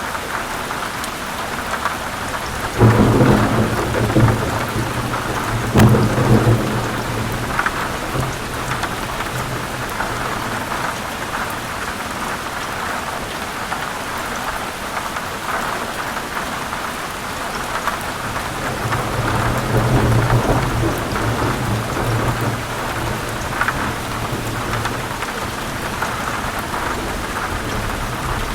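Heavy rain falling steadily on forest leaves, with thunder rumbling twice: a rumble that starts suddenly about three seconds in, with a sharp crack near six seconds, and a longer rumble around twenty seconds in.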